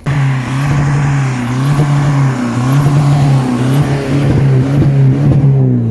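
Car engine revved and held at high revs, its pitch dipping briefly several times.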